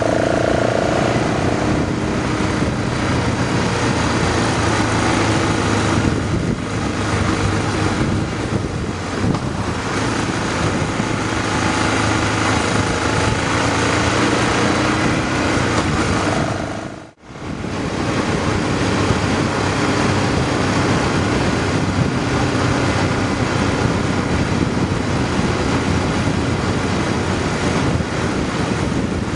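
Motorcycle engine running steadily at road speed, with wind noise rushing over the microphone. The sound cuts out for a moment a little over halfway through.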